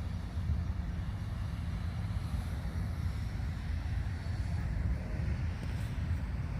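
Steady low rumble, with no distinct events.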